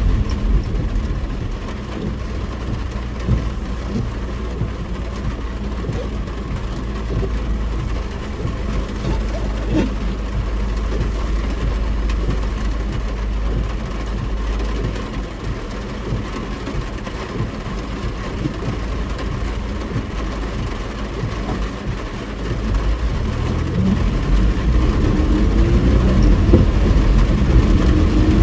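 Car engine and road noise heard from inside the cabin: a steady low rumble that swells about 23 seconds in as the engine speeds up with a rising pitch, pulling away.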